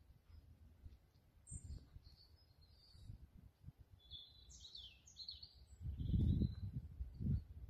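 Birds singing, with short chirps and a denser warbling phrase about four to six seconds in. Underneath, a low buffeting rumble grows heaviest near the end.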